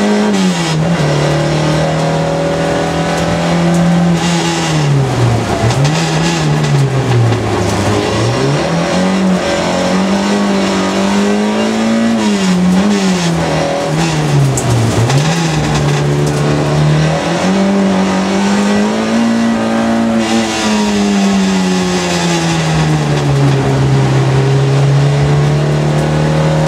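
Competition car's engine heard from inside the cabin during a slalom run, revving up under acceleration and falling away sharply several times as the driver lifts off and brakes for the turns. The deepest drops come about five, eight and fifteen seconds in, and the engine settles at a lower, steadier pitch near the end.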